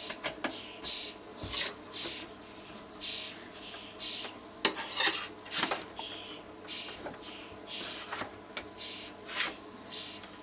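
A metal spoon scraping and clicking against amplifier parts as it is used to lever a part onto its locating pins: short, repeated scrapes about every half second, with a few sharper clicks.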